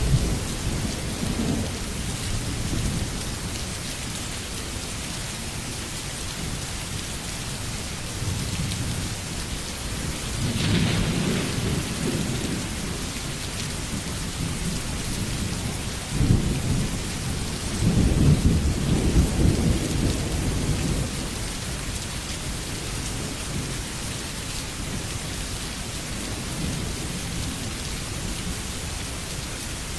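Steady rain falling, with thunder rolling twice: a low rumble about ten seconds in, then a longer, louder roll from about sixteen to twenty-one seconds.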